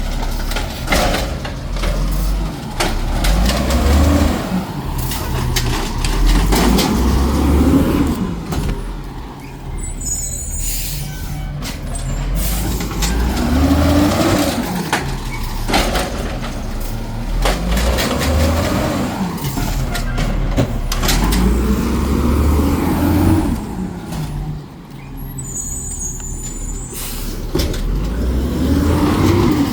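Garbage truck engine revving hard again and again, rising and falling in pitch every few seconds, as it drives the hydraulic packer compacting trash. Short bursts of air hiss come twice, about ten seconds in and again near twenty-six seconds.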